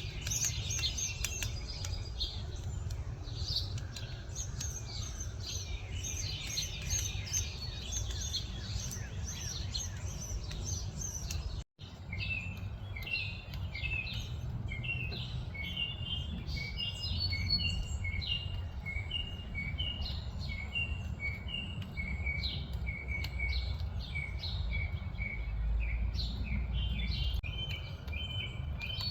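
Several songbirds chirping and calling over a steady low rumble. The sound cuts out for an instant near the middle, after which a long run of short, evenly repeated chirps takes over.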